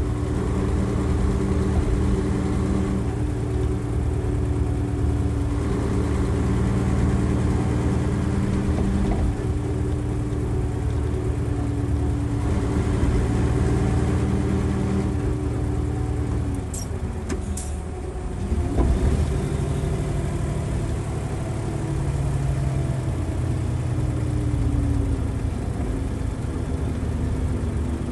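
Nissan Diesel FE92TA turbocharged diesel engine of a bus running under way. Its note is steady at first, falls in pitch about sixteen seconds in with a few sharp clicks, then climbs again and runs steady, easing down near the end.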